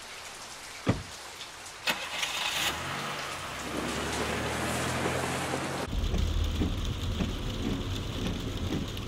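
Steady rain with two short thuds about a second apart, then a car engine starts and runs as the car pulls away. About six seconds in, the engine's low hum becomes heavier, as heard from inside the car.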